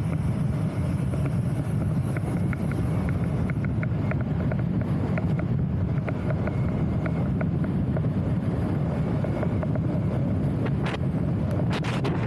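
Wind buffeting the microphone, a steady low rumble, with faint irregular ticking and a few sharp clicks near the end.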